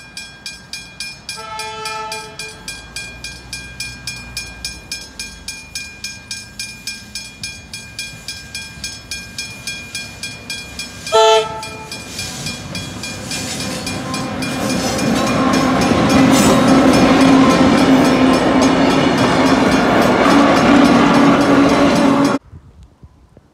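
Level-crossing bell ringing steadily while a Tait 'red rattler' electric train approaches, sounding its horn once for about a second a couple of seconds in, then a short, loud blast about eleven seconds in. The train then runs over the crossing, its rumble and wheel clatter growing louder until the sound cuts off abruptly near the end.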